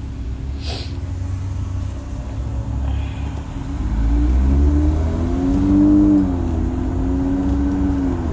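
Car engine and road rumble, with the engine pitch rising about four seconds in and falling away again as the car accelerates and eases off.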